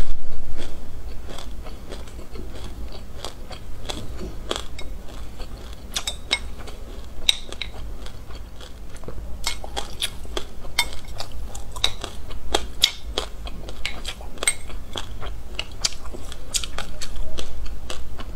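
Close-miked chewing of a mouthful of black sesame seeds: dense, irregular crackles as the seeds are crushed between the teeth, louder right at the start and again near the end, over a steady low hum.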